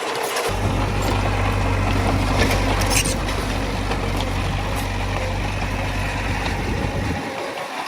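Heavy earthmoving machinery's diesel engine running, with clanks and rattles of metal and stone over it and a sharp clank about three seconds in. The low engine hum comes in about half a second in and drops away about a second before the end.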